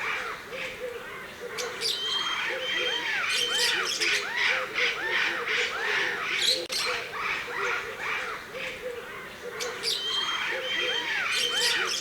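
Many birds calling at once: a dense, continuous chatter of shrill squawks and short repeated arching chirps.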